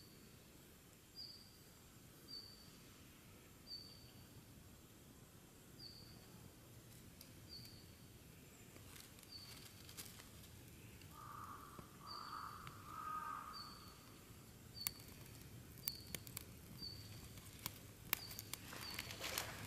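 A small bird repeats a short, high chirp about once a second. From about fifteen seconds in, sharp crackles and snaps come from twigs catching fire in a small wood-burning stove, the loudest sounds here.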